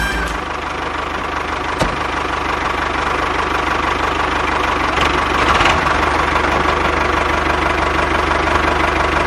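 Small diesel engine running steadily with an even, fast knocking beat.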